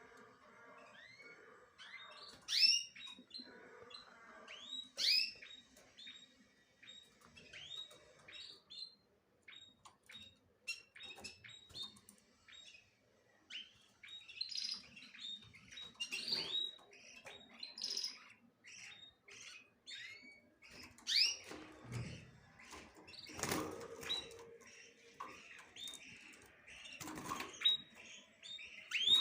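Small birds chirping busily, a steady stream of short, high chirps from several birds at once. A couple of louder rustles, like fluttering wings, come about three-quarters of the way through.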